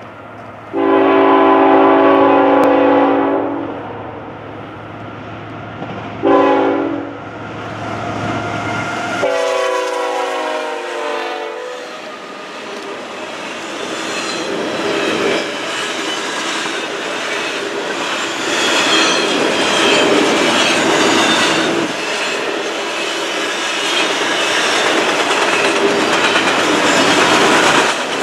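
Union Pacific diesel locomotive leading a double-stack container train sounds its air horn three times: a long blast, a short one, then another long one that drops in pitch as it passes. After that the stack cars roll by with steady, loud clattering of wheels over the rail joints.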